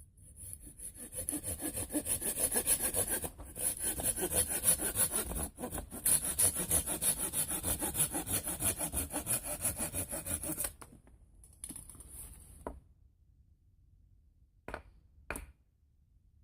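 Hand saw cutting through wood in quick, even strokes, pausing briefly twice and stopping about ten seconds in. A few softer scrapes follow, then two sharp knocks near the end.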